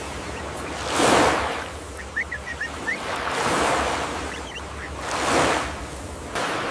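Rushing ambient noise that swells and fades about every two seconds, with a few faint high chirps near the middle.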